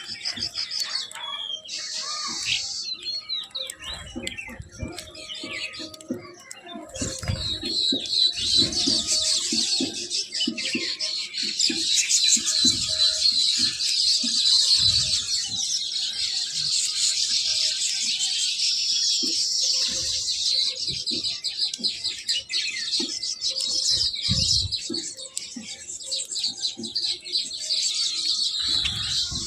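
Many small birds chirping at once: a few scattered calls at first, then a dense, continuous chatter from about seven seconds in, with scattered low thumps.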